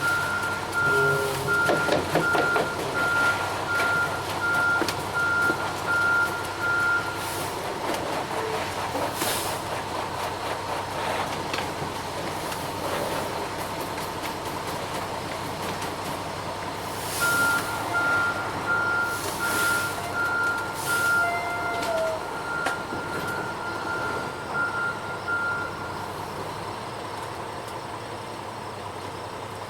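Front-discharge ready-mix concrete truck's backup alarm beeping, about one and a half beeps a second, in two runs: to about 7 seconds in, and again from about 17 to 26 seconds in, over the truck's diesel engine running. A few short hisses of air come between the runs.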